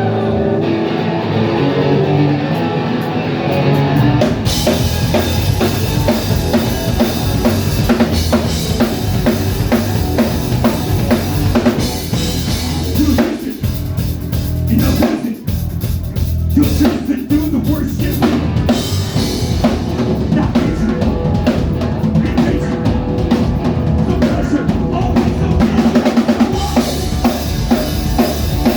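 Loud live rock band playing the opening of a song, led by a pounding drum kit with bass drum and snare under amplified guitar, with a short break about halfway through.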